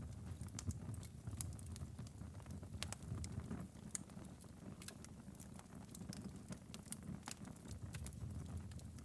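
Wood fire crackling in a fireplace: irregular sharp pops and ticks over a steady low rumble of the flames.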